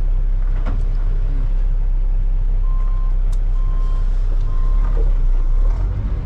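Semi truck hauling a heavy load, its engine and road rumble droning steadily, heard from the cab. Three short high beeps sound about one a second in the middle, like a backup alarm.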